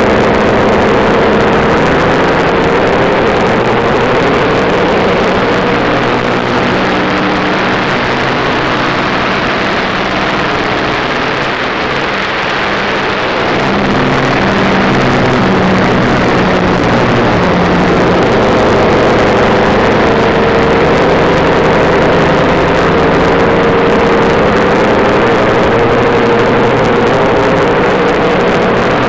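Stock car's V8 engine running hard at speed, heard from inside the cabin. About ten seconds in its note drops and gets a little quieter, then climbs back up and holds steady.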